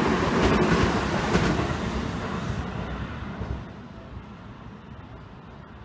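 Seibu Railway 20000 series electric train running past, its wheels clacking over rail joints, then fading away as the last cars go by, leaving only faint background noise after about three and a half seconds.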